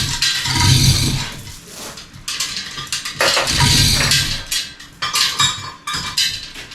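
Metal tools and engine parts clinking and clattering as they are handled, in irregular bursts.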